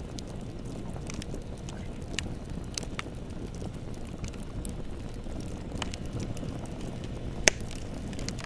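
Bonfire burning: a steady low rumble with scattered crackles and pops, one sharp loud pop about seven and a half seconds in.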